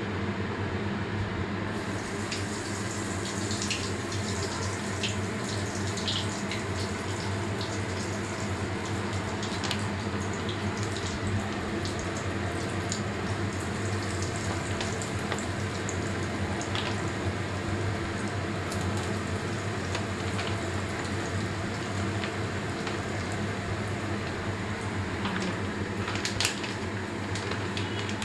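Chicken balls deep-frying in hot oil in a steel wok: a steady sizzle with scattered pops and crackles, turning sharper about two seconds in. A steady low hum runs underneath, and a sharper knock comes near the end.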